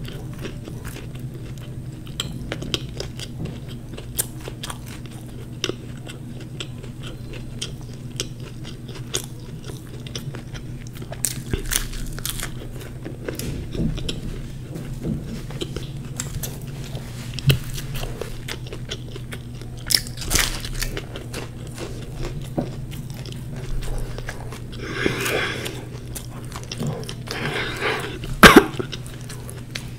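Close-up chewing of fried samosa: a steady stream of small mouth clicks and crunches of the pastry crust over a low hum, with a louder crunch near the end.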